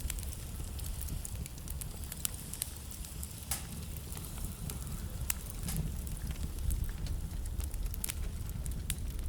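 Wood fire in a fireplace crackling, with irregular sharp pops (a few louder ones about three and a half, five and eight seconds in) over a steady low rumble of the flames.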